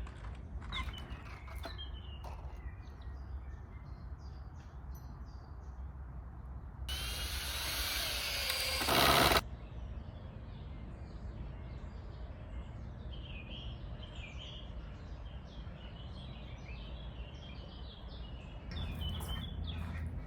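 Outdoor ambience with small birds chirping over a steady low rumble. Near the middle a loud rushing noise lasts about two and a half seconds, then cuts off suddenly.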